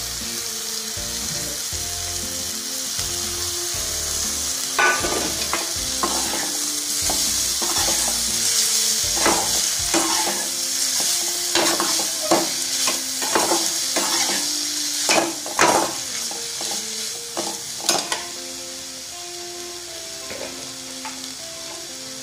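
Boiled broad beans sizzling in oil in an aluminium kadai while a perforated steel spatula stirs them. The spatula scrapes and knocks against the pan in quick strokes, busiest from about five seconds in until near the end, when the stirring stops and only a softer sizzle is left.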